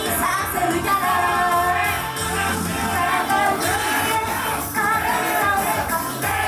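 Japanese idol pop song performed live: a female group singing over a loud pop backing track with a steady beat.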